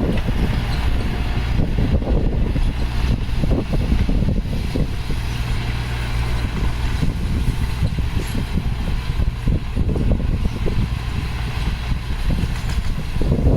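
Heavy diesel engine of earthmoving equipment running steadily, with uneven rough noise laid over its low drone.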